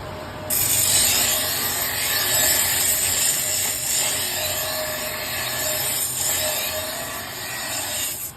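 Double-sided knife sharpening machine running with its motor humming, and from about half a second in a loud, steady hiss of steel being ground on the grinding wheel, cutting off suddenly near the end.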